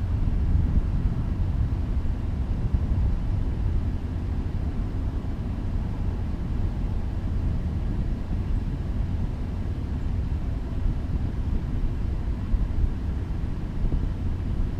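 Freight train rolling by: a steady low rumble with no horn or clear engine note.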